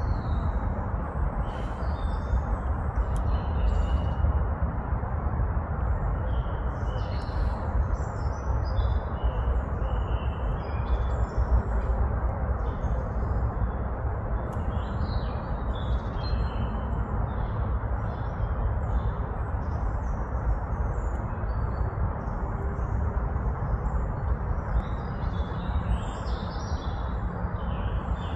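Wild birds chirping and singing in short, repeated high phrases over a steady low rumble and hiss.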